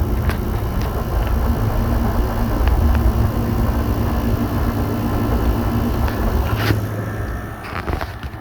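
Window air conditioners running: a steady compressor and fan hum with a deep rumble and a faint steady tone that fades out about two-thirds of the way through, and a sharp click near the end.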